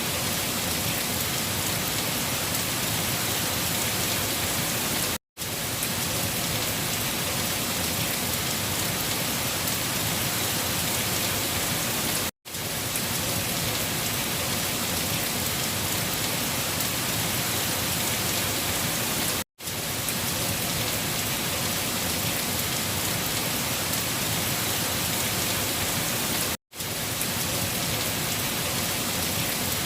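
Steady rain falling, an even dense hiss with no thunder claps, cutting out to silence for a fraction of a second about every seven seconds, four times.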